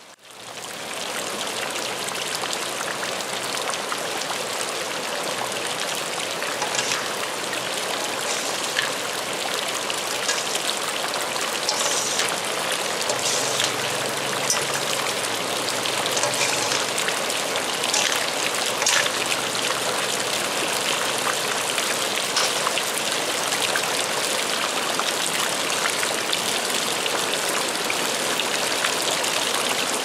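Heavy rain falling steadily, a dense hiss with scattered louder drop hits.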